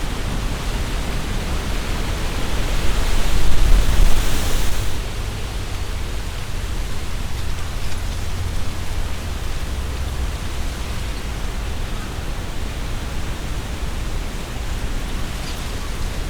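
Strong wind gusting through trees, the leaves rustling, with a heavy low rumble of wind buffeting the binaural microphones. A gust swells about three seconds in and eases off by five seconds, leaving a steadier rustle.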